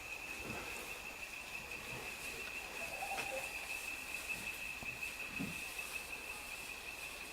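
A rainforest insect trilling without a break at one steady high pitch, with a few faint soft knocks under it.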